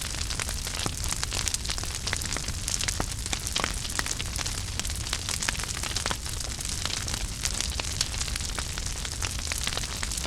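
Wood fire burning in a fireplace: a steady hiss and low rumble with frequent sharp crackles and pops.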